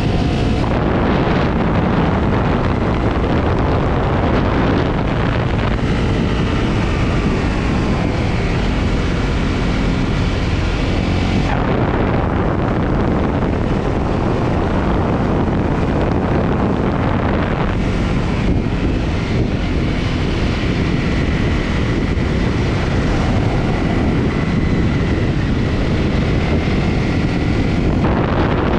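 Honda CRF250's single-cylinder four-stroke engine running under way, its pitch rising and falling with the throttle and shifting a few times, under heavy wind noise on the microphone.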